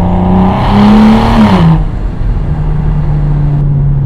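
BMW E92 335i's turbocharged N55 inline-six with a muffler-deleted exhaust, pulling under hard throttle with a rising note and a loud exhaust rush, then lifting off about one and a half seconds in. The pitch drops and settles into a steady lower drone.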